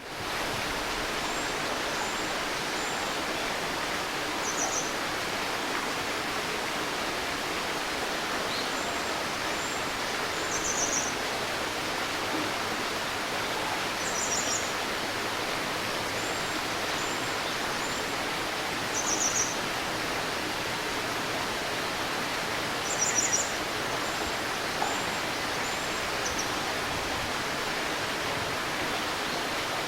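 Steady murmur of a shallow stream, with small birds chirping now and then over it: short high calls and brief trills several times, the loudest trill a little after the middle.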